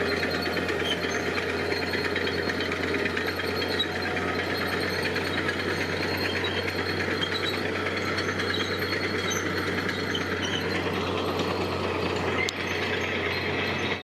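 Diesel engine of heavy construction machinery running steadily with a fast, even rattle.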